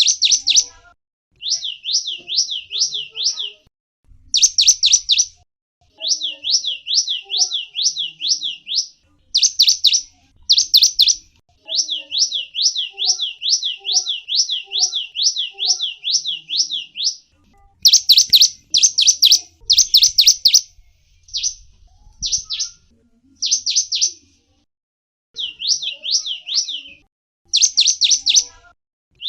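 Gelatik wingko songbird singing: fast runs of high, repeated sweeping notes, about four or five a second, in phrases of a few seconds broken by short pauses.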